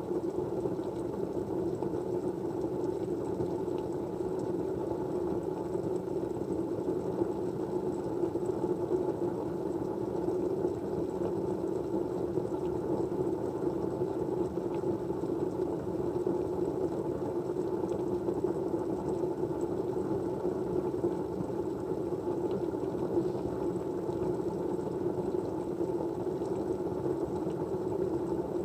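Steady, muffled rushing white noise, even in level throughout, with a few faint ticks.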